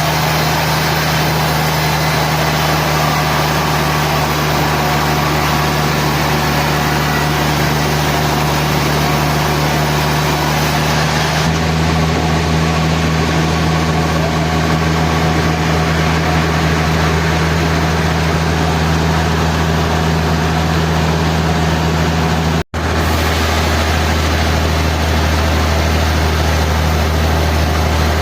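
Sawmill machinery running steadily, a deep continuous hum. The low pitch shifts about eleven seconds in, and the sound drops out for an instant near the end.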